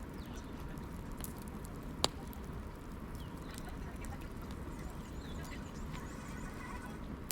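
Wood fire crackling in a fireplace: a steady low burning hiss with small scattered crackles and one sharp, loud pop about two seconds in.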